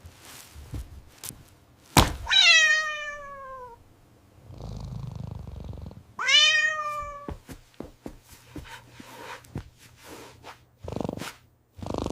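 A cat meowing twice, each meow starting high and sliding down in pitch, the first just after a sharp thump. Small knocks and taps are scattered around the meows.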